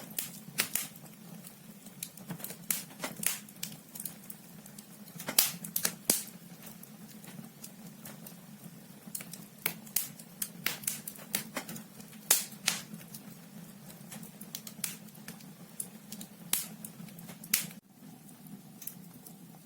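Wood logs burning in a fireplace, crackling and popping in irregular sharp snaps over a steady low background.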